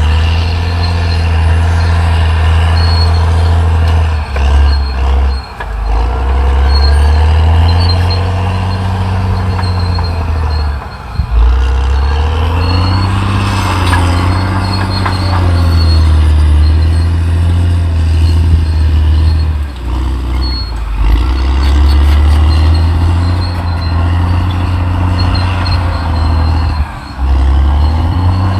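Caterpillar D6R XL bulldozer's diesel engine working under load, its pitch rising and falling as it pushes. The engine note dips briefly four times, and a thin, steady high whine runs beneath it.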